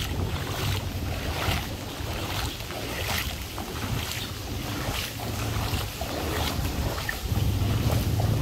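Heavy rain and wind, with gusts rumbling on the microphone over a steady hiss of rain.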